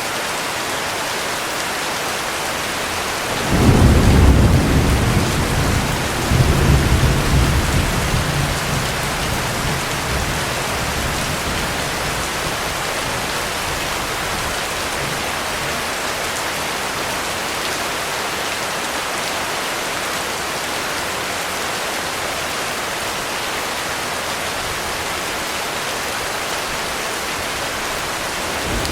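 Steady heavy rain, with a deep roll of thunder starting a few seconds in that rumbles again a couple of seconds later and dies away after about ten seconds; another rumble of thunder begins right at the end.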